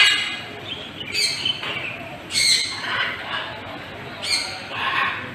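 Birds squawking: a series of short, harsh calls about a second apart.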